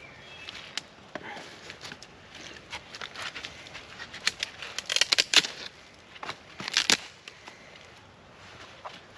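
Dry sticks being snapped and handled to feed a campfire: a run of sharp cracks and clicks, loudest in clusters about five and seven seconds in.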